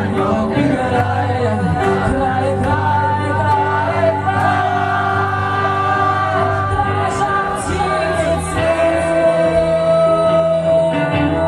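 Live band performing a song: a singer's melody over held bass notes and guitars, with the room's echo. The bass moves to a new note about eight seconds in.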